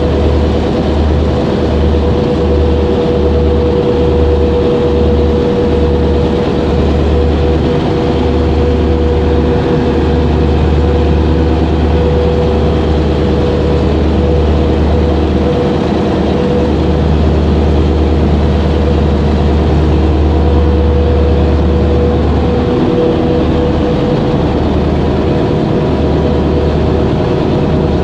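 A boat's engine running with a loud steady drone and a constant hum; the low rumble pulses on and off about twice a second in the first few seconds and again near the end.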